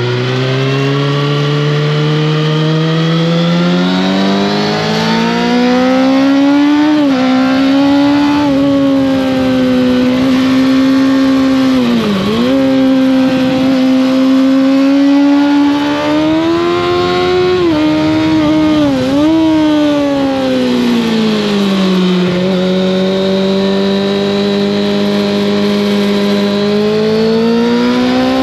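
Kawasaki ZX-6R inline-four motorcycle engine with an Arrow exhaust, running under way. Its note climbs steadily for the first few seconds, then holds, dipping sharply and briefly several times. About two-thirds of the way through it settles to a lower steady note, then climbs again near the end.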